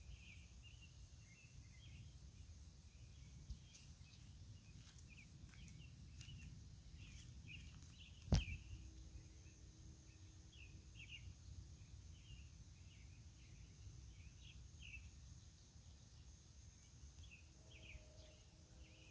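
Faint outdoor night ambience: many short, irregular chirps keep going over a thin steady high-pitched drone and a low background rumble. A single sharp click about eight seconds in is the loudest sound.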